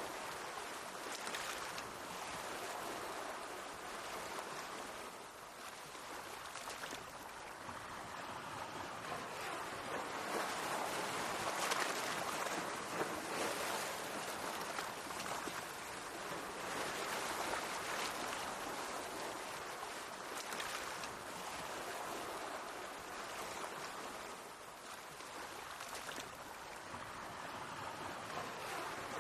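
Sea waves washing against the shore, a steady hiss of moving water that swells and eases every few seconds.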